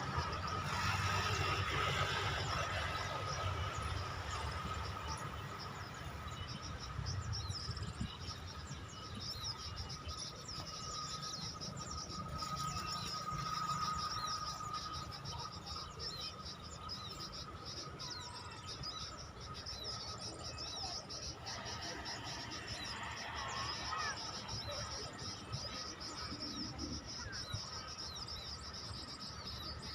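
Outdoor insect chorus, with a steady high trilling and a thin constant tone, and a few bird chirps. The microphone picks up a low rumble under it, and short bird calls come in about two-thirds of the way through.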